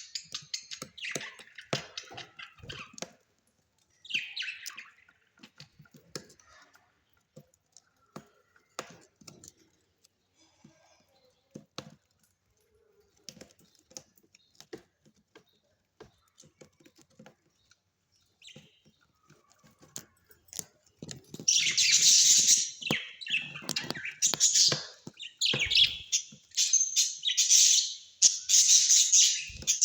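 Small parrots chirping: scattered short high chirps and clicks at first, then from about two-thirds of the way in a loud, continuous stretch of high chattering and twittering.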